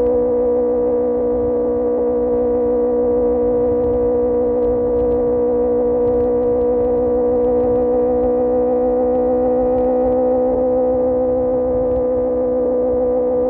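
QJMotor SRK600 inline-four engine running through an Austin Racing GP1R exhaust, its note held nearly constant while cruising and easing slightly in pitch partway through.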